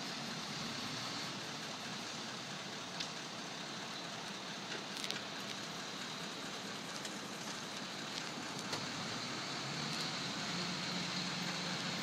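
Crane truck's engine running steadily under a constant hiss, with a few light clicks; a low hum grows stronger about ten seconds in.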